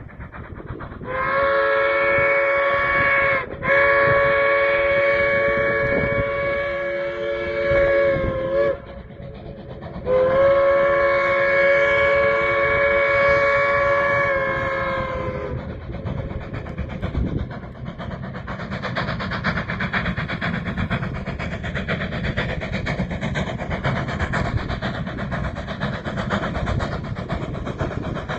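Narrow-gauge locomotive sounding its multi-note chime in three blasts, a short one about a second in, then two long ones, followed by the steady rumble of the train rolling along the rails.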